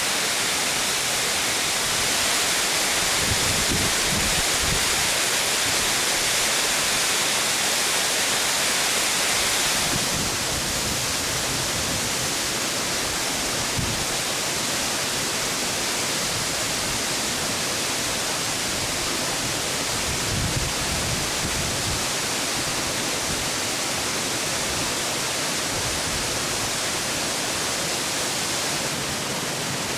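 Waterfall: a steady, dense rush of falling water. About ten seconds in it turns a little quieter and less hissy.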